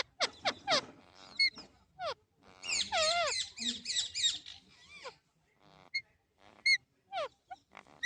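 Alexandrine parakeet calling. A run of short, sharp chirps that sweep downward is followed by about two seconds of dense, warbling chatter, then scattered single chirps.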